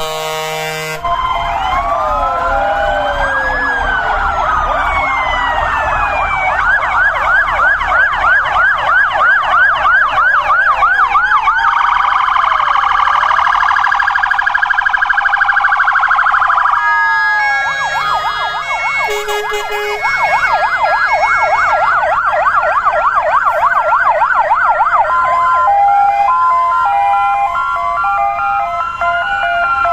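Several fire engine sirens sounding at once as vehicles pass. Slow rising and falling wails overlap with fast yelping sweeps and stepped two-tone hi-lo calls, which shift from one mix to another over the half-minute.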